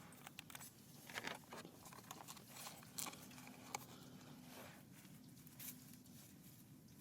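Near silence, with a few faint, scattered clicks and rustles.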